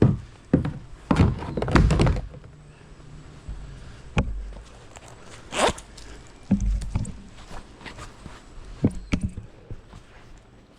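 Irregular thumps and knocks of gear being handled: a quick run of them in the first two seconds, then single knocks every second or two.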